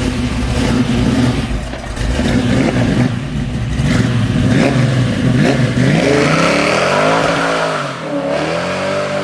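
Car engine running loudly and being revved, its pitch rising and falling several times in the last few seconds.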